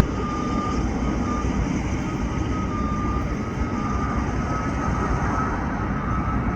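Jet airliner engines running: a steady rumble with a faint, steady high whine.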